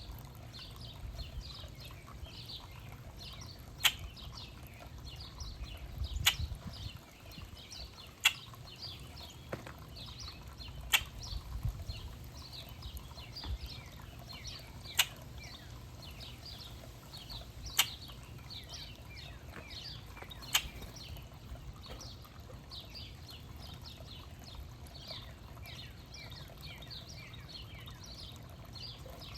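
Many birds chirping in quick, overlapping short notes, with a sharp click or tap about every two to three seconds for the first twenty seconds, over a low steady rumble.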